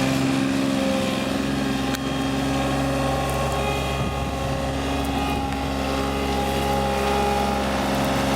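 John Deere 3235B fairway mower's Yanmar 3TNE84 three-cylinder diesel engine running steadily while the mower is driven in four-wheel drive.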